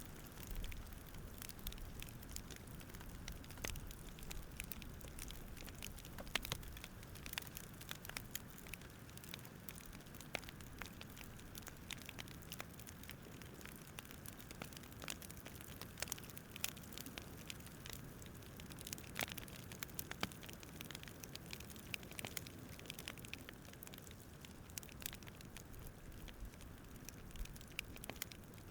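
Wood fire crackling quietly, with many small irregular pops over a low steady rumble.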